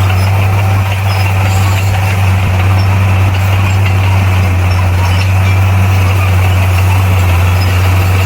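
Heavy earthmoving machine's diesel engine running steadily with a deep, even drone that holds at one pitch.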